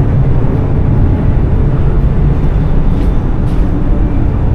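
Steady low rumble of the Whoosh high-speed train running at speed, heard from inside the carriage, with a few faint ticks.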